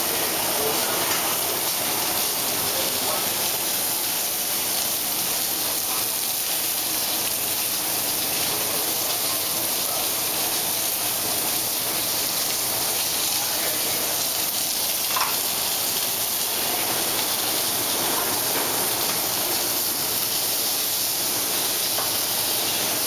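Chicken pieces searing skin side down in a frying pan with little oil: a steady, even sizzle as the skin browns.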